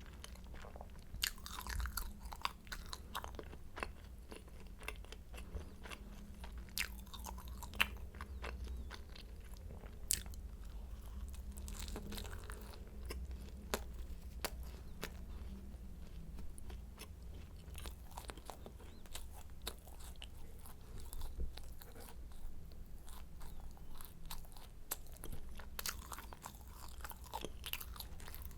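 Close-miked eating of croissants: flaky pastry crunching and crackling under bites and chewing, with many small sharp crackles.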